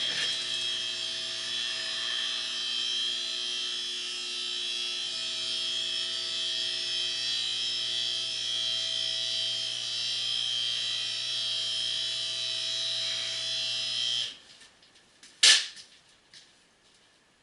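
A small electric motor running steadily with a whirring hum and hiss for about fourteen seconds, then cutting off abruptly; a second or so later comes one sharp clack.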